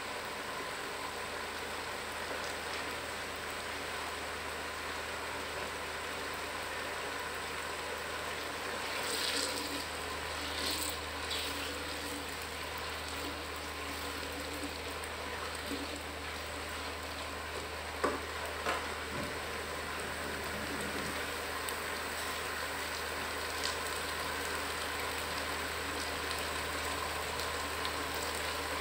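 Sliced arvi (taro root) sizzling steadily as it fries in oil in a pot, with a few short scrapes and taps of a silicone spatula as it is stirred.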